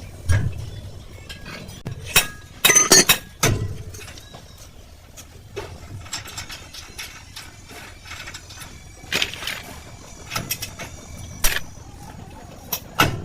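Metal tools clinking and knocking against a truck's rear wheel hub: irregular sharp strikes, with a quick cluster a couple of seconds in and single knocks spread through the rest.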